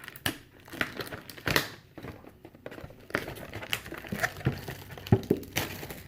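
Packaging of a 2018 Panini Prizm trading-card mega box being torn open and crinkled: irregular crackles and rips of wrapping and cardboard.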